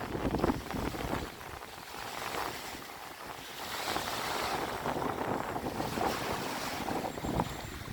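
Waves on open water washing in, swelling and ebbing every couple of seconds, with wind gusting across the microphone in the first second.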